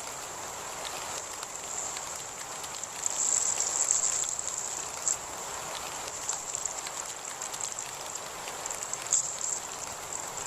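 Steady rain falling, with raindrops ticking on a surface. A continuous high-pitched drone runs underneath and grows louder for a second or so, about three seconds in.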